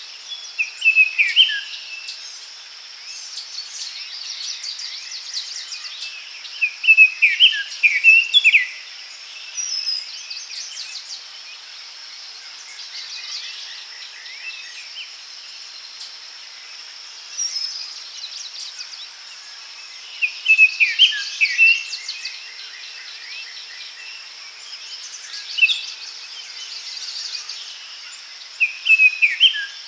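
Forest birdsong: short songs of quick descending notes repeat every six to eight seconds, mixed with higher trills from other birds, over a steady high-pitched insect drone.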